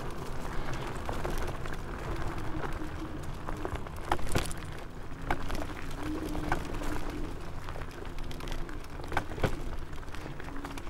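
KuKirin G2 Max electric scooter ridden over a rough forest trail. The motor's steady whine comes and goes as the throttle changes, over a rumble of tyres and wind, and sharp knocks and rattles sound as the scooter jolts over bumps.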